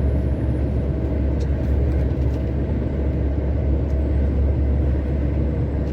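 Heavy truck driving, heard from inside the cab: a steady, loud low drone of engine and road noise.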